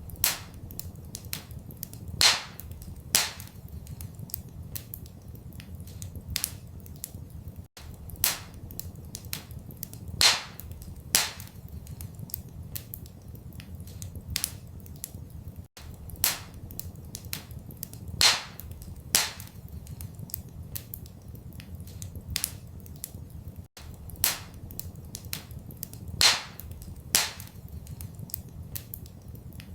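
Wood fire crackling in a fireplace: frequent small crackles and sharp snapping pops over a steady low rumble. The same pattern of two louder pops about a second apart comes back every eight seconds or so, as in a looped recording.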